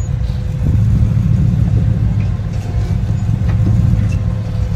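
Off-road 4x4's engine running steadily at low revs, a continuous low rumble.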